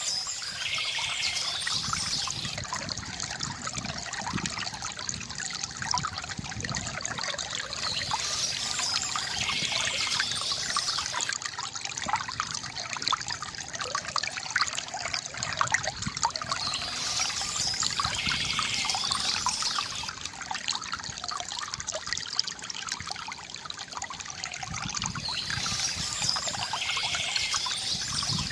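Water trickling and splashing steadily from a bamboo fountain, with a short bird call that comes back about every nine seconds.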